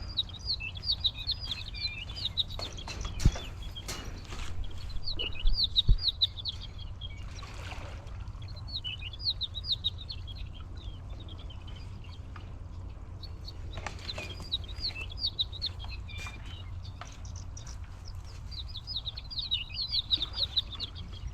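Small birds chirping in repeated phrases of rapid, high chirps, a few seconds apart, over a steady low rumble. A few sharp knocks sound in the first six seconds.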